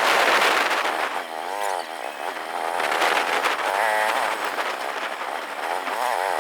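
Motorcycle engine running on the move, its pitch rising and falling again several times as the throttle is opened and eased, over a steady rush of wind and road noise.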